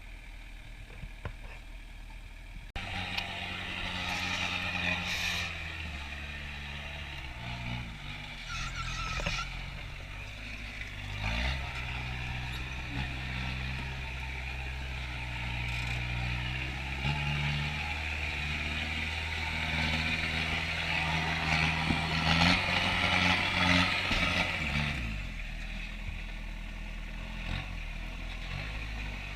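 Kubota turbo diesel engine revving up and down under load, the pitch rising and falling again and again, with a rushing noise over it. It runs more quietly and steadily for the first few seconds and again near the end.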